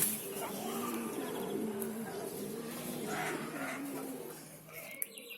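Domestic pigeons cooing in low, drawn-out, overlapping coos that fade out about four seconds in, with a few faint higher chirps.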